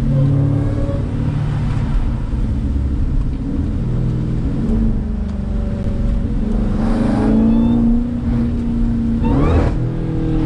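Jeep Grand Cherokee Trackhawk's supercharged 6.2-litre Hemi V8 running while driving, its pitch rising in two quick surges in the second half as the revs climb.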